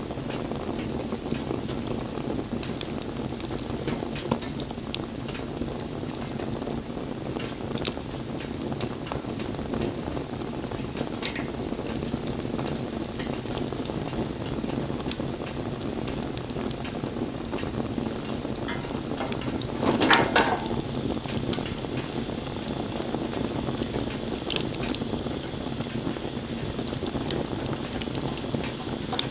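Wood fire burning with a steady low rushing hiss and scattered crackles and pops. A louder hissing burst comes about twenty seconds in.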